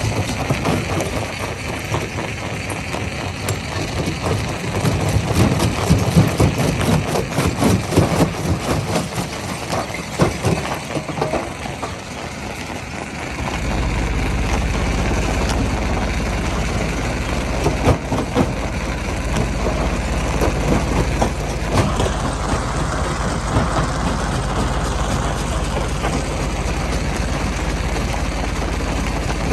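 Heavy machinery running at a rock-crushing site. Irregular knocks and clatter fill the first half, and about halfway a steady low drone of a heavy engine sets in and holds.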